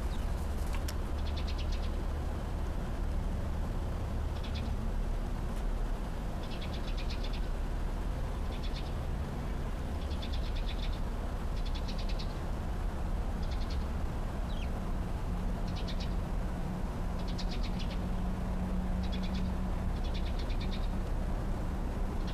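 A small bird's short, high, rapid trill, repeated every one to two seconds, over a steady low rumble.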